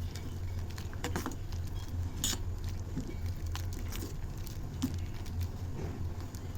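Vegetable corn soup boiling in a pan, bubbles popping in small, irregular clicks over a steady low hum.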